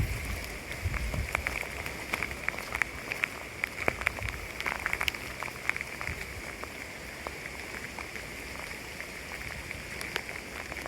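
Rain falling, individual drops landing as scattered sharp ticks over a steady hiss.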